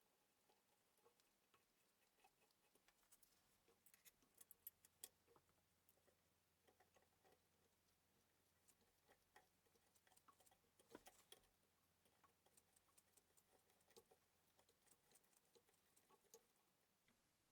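Near silence with faint, scattered small clicks and taps at irregular intervals.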